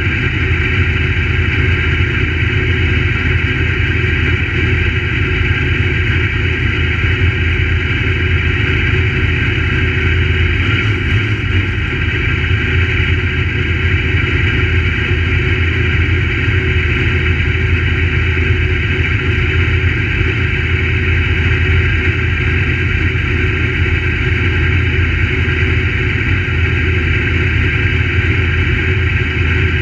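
Crate late model stock car's V8 engine running at a steady, unbroken pitch.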